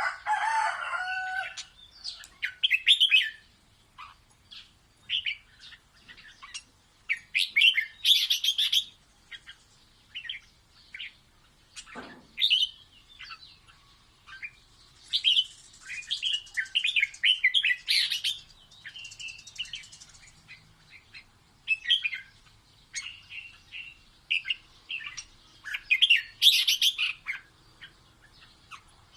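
Red-whiskered bulbul singing: short bursts of bright, chirpy warbled phrases, coming one after another with brief pauses between them.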